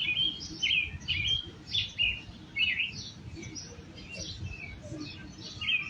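Songbirds chirping, a run of short high chirps, busiest in the first few seconds and picking up again near the end.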